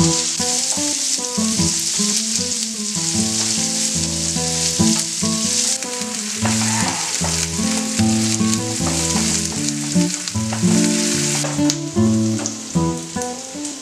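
Sliced onions sizzling as they fry in hot oil in a frying pan, stirred with a wooden spatula, with the sizzle easing near the end. Background music with held low notes plays throughout.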